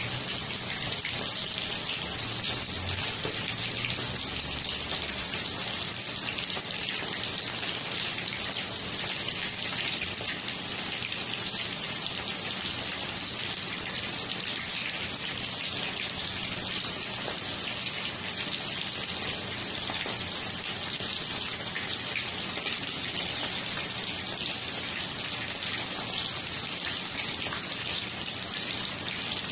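Coated chicken pieces shallow-frying in hot oil in a pan: a steady sizzle.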